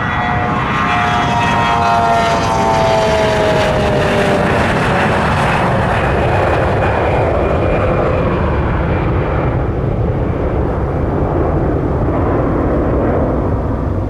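Mitsubishi CRJ-900 regional jet's two turbofans at takeoff power as it passes. The fan whine glides down in pitch over the first several seconds, then a steady jet roar eases off near the end.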